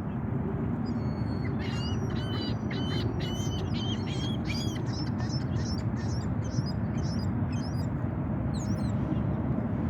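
A flock of small birds chirping busily, many short high calls overlapping, over a steady low background noise.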